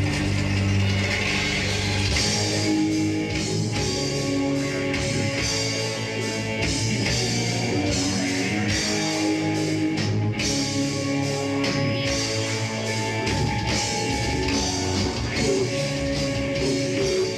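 Live rock band playing a metal song: electric guitars, bass and drum kit, loud and continuous.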